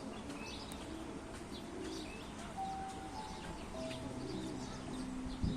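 Swan calling in a series of short held notes, with small birds chirping rapidly behind it.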